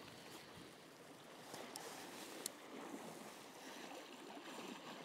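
Faint, steady sea ambience on a rocky shore: water washing against the rocks and light wind, with a couple of faint ticks about two seconds in.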